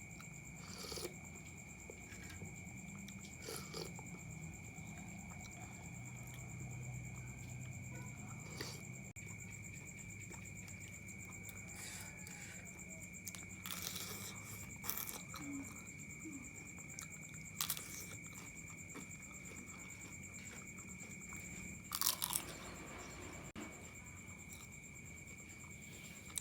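A person eating mie ayam (Indonesian chicken noodles) close to the microphone: chewing with scattered sharp crunches, the loudest about 22 seconds in, over a steady high-pitched tone.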